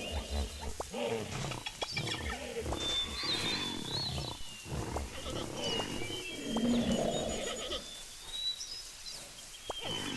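Low calls from a large animal, once at the start and again about two thirds of the way through, with birds whistling in the background.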